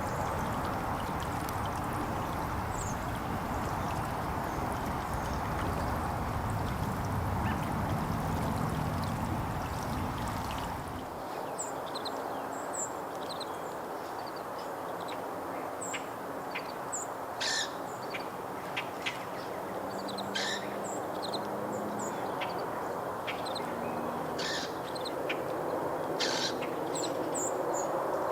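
A steady rushing noise fills the first ten seconds or so, then drops away abruptly. Small songbirds then give many short, high chirps, with a few sharp clicks among them.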